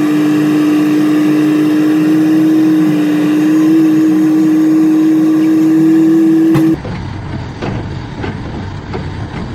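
Dump truck horn sounding in one long, steady blast of about seven seconds that cuts off abruptly, followed by the truck's engine running.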